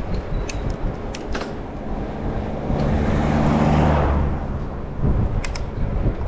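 Wind rumbling on a GoPro microphone during a bike ride, with a motor vehicle passing close by: its engine and tyre noise swell and fade about three to four seconds in. A few sharp clicks come near the start and again near the end.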